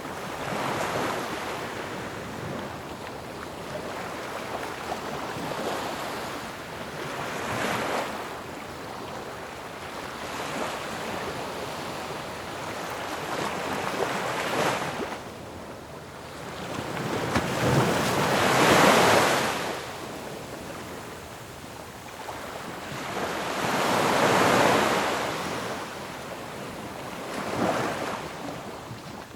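Ocean waves breaking on a shore, a steady wash of surf with swells that build and crash every few seconds; the largest breaks come a little past halfway and again about five seconds later.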